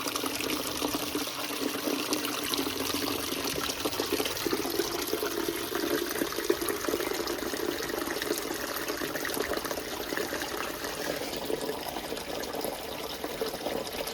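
Water trickling steadily across a crawlspace floor: leak water from the back of the house flowing through the crawlspace.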